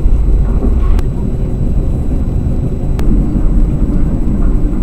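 Steady low rumble of the Sawunggalih Utama business-class passenger train running, heard inside the carriage, with two faint sharp clicks about a second and three seconds in.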